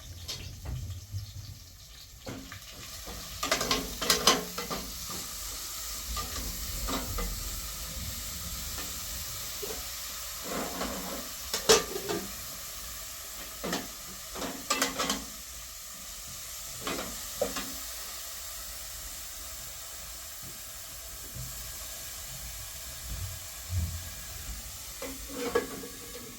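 Food sizzling in a pan as a steady hiss, with scattered clinks and knocks of a utensil stirring against the pot.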